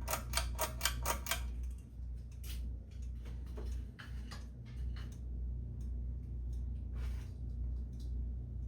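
Hunter ceiling fan's motor humming steadily as it is switched to medium speed. A quick run of clicks in the first second and a half comes from the pull-chain switch and chain, with a few lighter ticks after.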